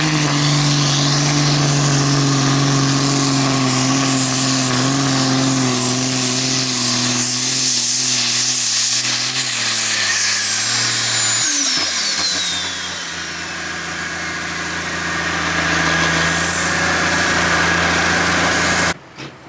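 Super Sport class pulling tractor's turbocharged diesel engine running hard under load, its pitch slowly sagging, with a high turbo whine over it. About halfway through the engine comes off full power: the whine winds down and the engine settles to a lower, steady note. Just before the end the sound cuts abruptly to a quieter pulsing.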